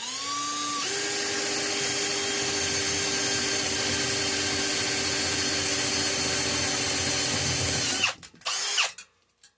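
Electric drill spinning up with a rising whine, then running steadily for about eight seconds while drilling a hole through aluminum bar for a battery bus bar. Near the end it stops and gives one short burst.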